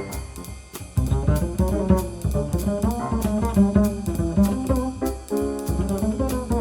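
Straight-ahead jazz quintet playing: double bass and drum kit keep a steady beat with regular cymbal strokes under the horns and piano. The band thins out briefly in the first second before the full beat comes back in.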